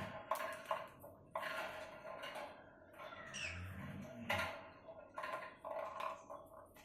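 Pet lovebird chirping and chattering in short bursts, with a high falling chirp about three seconds in and several sharp clicks.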